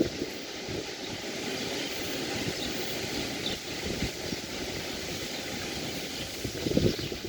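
Steady wash of sea surf on a beach, with a gust of wind rumbling on the microphone near the end and a few faint, high bird chirps.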